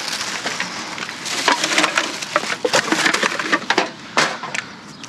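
A bagged-up bag of cans being handled, with a dense run of crinkling and clattering clicks that thins out near the end.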